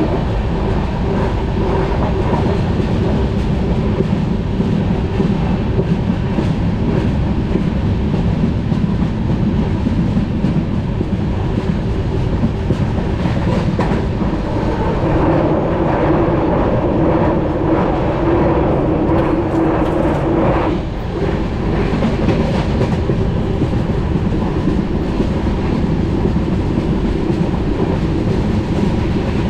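Passenger train running along the line, heard from inside a coach: a steady, continuous rumble of the wheels on the rails, with a brief dip about two-thirds of the way through.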